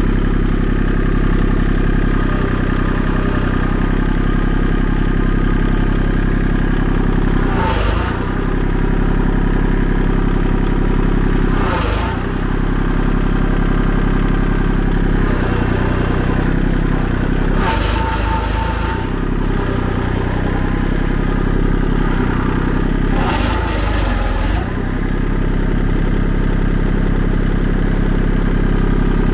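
Engine running steadily under load while it tries to drag a downed tree trunk on a chain, with four short bursts of clattering and scraping. The trunk does not come free: the pull fails.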